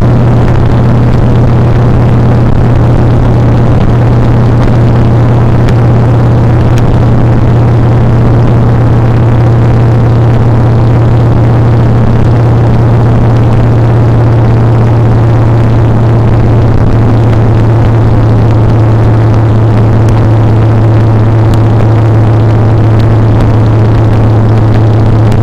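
Motorcycle engine running at a steady speed while riding, a low, level engine note under a steady rushing noise.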